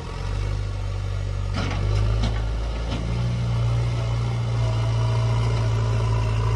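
Heavy diesel machinery engine running steadily, with two short knocks about one and a half and two seconds in.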